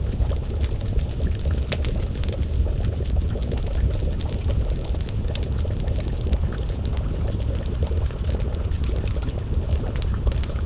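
Wood fire crackling, with many small sharp pops, over a steady low rumble, while a pot of stew bubbles as it simmers.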